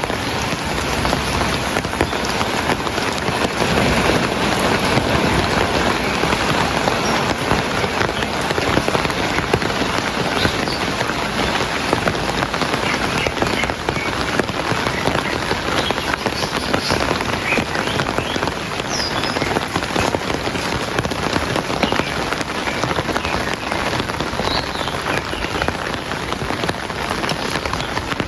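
Heavy rain falling steadily: a dense, even patter of drops on surfaces.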